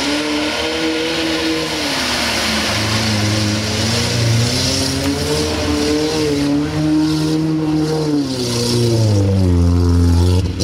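Lada Niva's engine revving hard, its pitch rising and falling several times under heavy throttle as it wades through a muddy water pit and climbs the bank, with a steady hiss of splashing water and mud.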